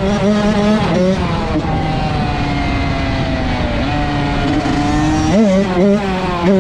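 Dirt bike engine revving, its pitch rising and falling repeatedly with the throttle, holding steadier for a couple of seconds mid-way, then climbing again near the end.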